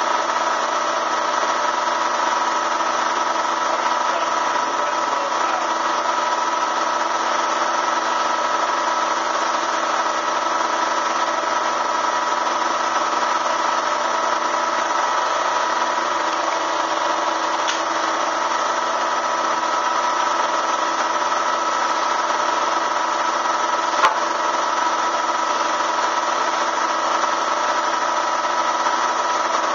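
Bee vacuum's electric motor running steadily, a constant hum with a whine of several held tones. A single sharp click comes about 24 seconds in.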